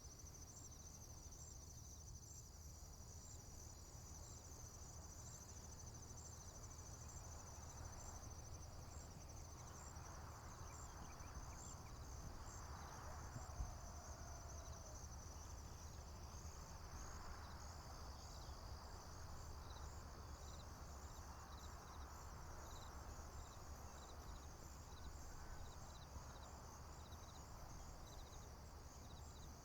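Crickets and other insects chirping in a steady high-pitched trill with regular pulses, faint over a low rumble. A soft rushing swell of noise rises and fades in the middle.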